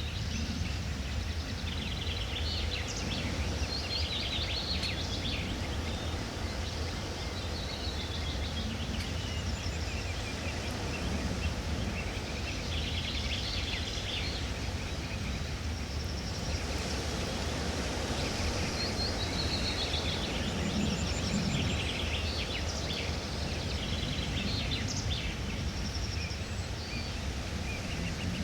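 Forest ambience: many small birds chirping and trilling throughout, over a steady low rumble.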